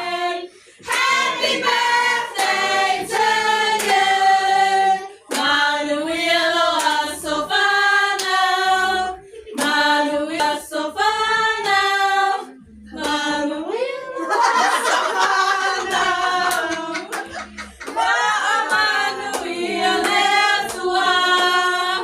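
A group of voices singing a birthday song unaccompanied, in phrases of a few seconds each, with occasional sharp handclaps.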